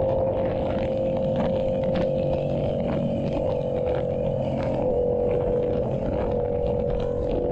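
Yamaha YZF-R7's 689 cc parallel-twin running through an SC-Project exhaust at a steady cruise, its note holding a nearly constant pitch.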